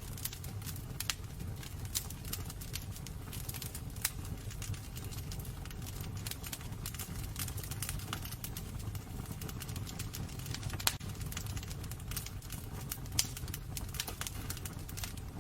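Wood burning in a fireplace, crackling with irregular sharp pops over a steady low rumble; two louder pops come about 11 and 13 seconds in.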